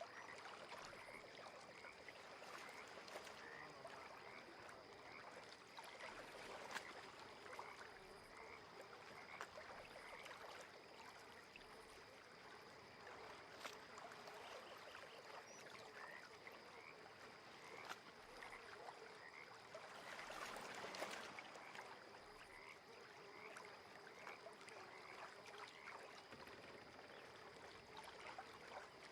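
Faint lakeside ambience: frogs calling in short repeated notes about once a second over a soft, steady water haze, with a thin steady high tone throughout.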